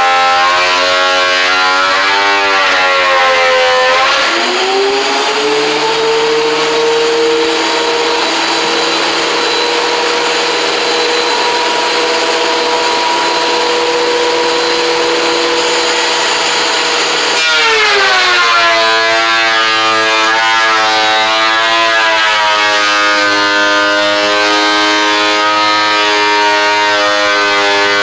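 Electric motor of a woodworking power tool running with a steady whine. At about 4 seconds the pitch drops sharply and then settles, with a hiss of wood being cut under it. Near 17 seconds the pitch jumps up and the hiss fades, as the tool comes off the cut.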